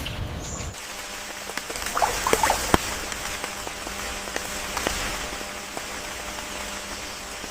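Wetland ambience: a steady soft hiss with scattered small clicks and patters, busiest about two to three seconds in.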